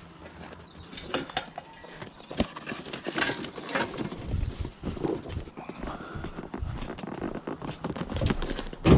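Irregular metallic knocks and rattles, an old bicycle being handled and picked up as scrap.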